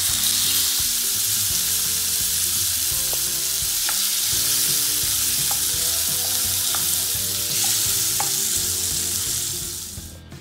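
Marinated chicken pieces sizzling loudly in hot oil in a non-stick frying pan as a spatula stirs them, with a few light taps of the spatula on the pan. The sizzle fades out near the end.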